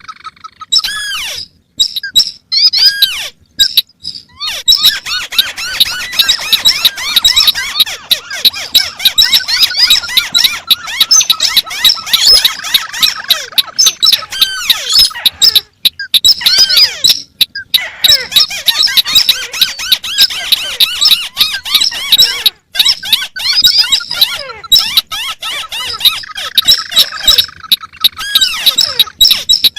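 Recorded calls of several paddy-field crakes, including the white-browed crake, played over one another: dense, fast-repeating high chirps and chattering notes that do not keep time with each other. There are a few short breaks in the calling.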